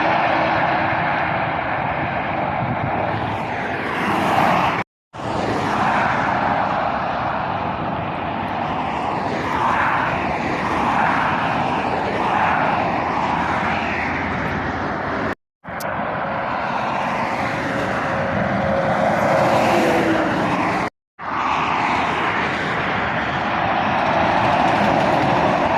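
Passing road traffic, lorries and cars, a steady roar of tyres and engines with a tone falling in pitch as one vehicle goes by about twenty seconds in. The sound breaks off abruptly three times where short clips are joined.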